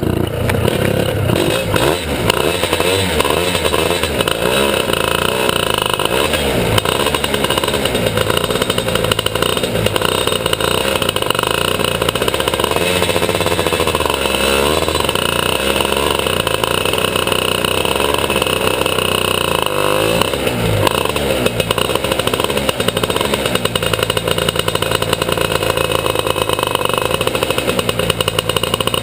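Single-cylinder two-stroke kart engine at racing speed, its pitch rising and falling again and again as it accelerates and backs off.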